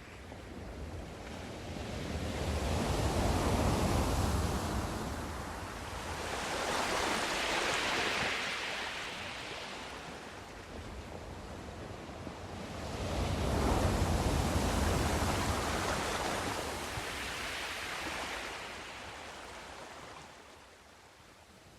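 Sea waves surging and washing in slow swells, each building over a few seconds with a low rumble and a hiss, then falling away; two large surges about ten seconds apart.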